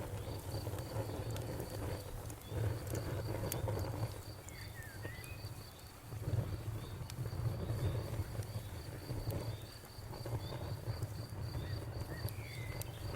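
Campfire burning with a low rumble and scattered sharp crackles. A cricket chirps steadily in a high, even pulse throughout, and a bird gives brief chirps.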